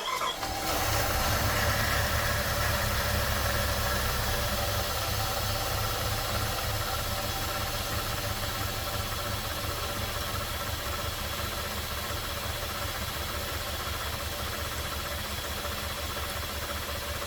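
2000 Jeep Grand Cherokee's 4.7-litre V8 catching about half a second in and settling into a steady idle that slowly quietens: the first start after a head gasket and timing chain replacement.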